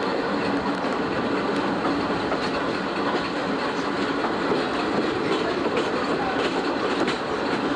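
Old-type passenger coach rolling along behind a steam locomotive: a steady rumble of wheels on rail with scattered clicks as the wheels cross rail joints and points.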